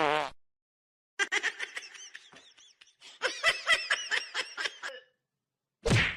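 Laughter in a string of short rising-and-falling pulses, picking up toward the end before stopping.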